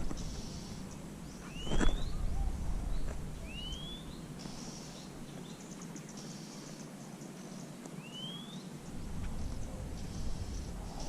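Open-air ambience: a bird gives a short rising whistled call three times over a patchy insect buzz and low rumble. A single knock stands out about two seconds in and is the loudest sound.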